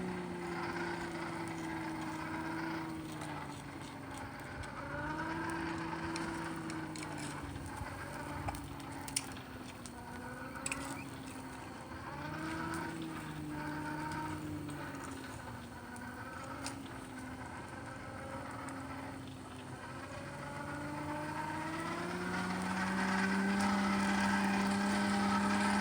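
A motor running with a humming pitch that slowly sags and rises again several times, then climbs and holds higher near the end, with a few faint clicks.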